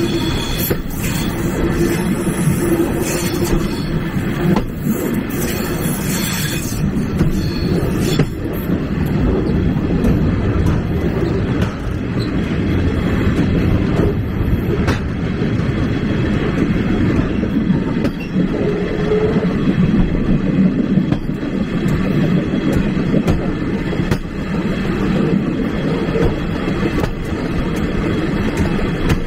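Railway carriage rolling along the track: a steady rumble of wheels on rail, with occasional knocks as the wheels cross rail joints.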